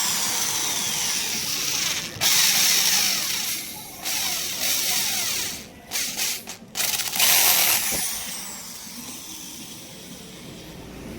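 A handheld power tool run in several short bursts of a second or two each, starting and stopping sharply, with a high whirring hiss. It tails off near the end.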